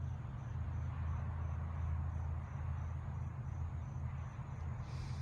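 Crickets chirping in a steady, high, evenly pulsing trill over a constant low rumble.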